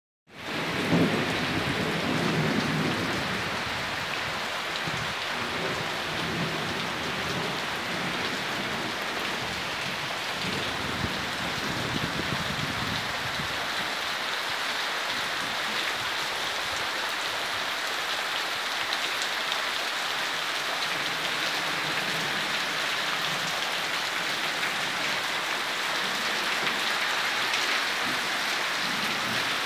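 Heavy rain pouring steadily onto the ground, foliage and roof, with a low rumble under it for the first dozen or so seconds.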